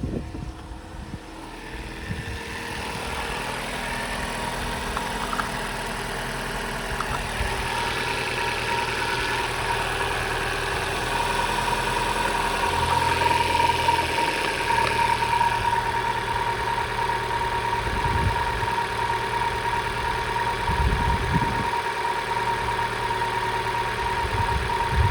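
Opel Astra H's 1.6-litre Z16XEP four-cylinder petrol engine idling steadily, getting louder over the first few seconds.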